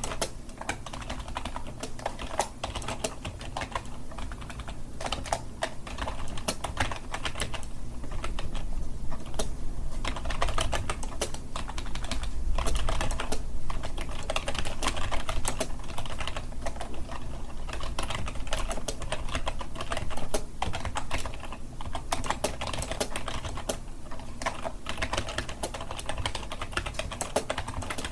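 Continuous typing on a computer keyboard: rapid, steady key clicks with no pauses.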